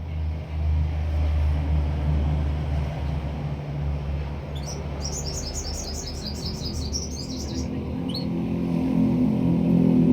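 A small songbird gives a fast trill of high, repeated notes about halfway through, lasting around three seconds, then a single short chirp. A steady low rumble runs underneath.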